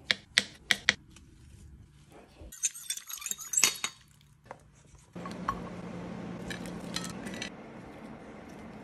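Dishes and cutlery clinking at a meal: a quick run of sharp clinks, then a clatter about three seconds in. About five seconds in, a steady hiss with a low hum starts suddenly and carries on.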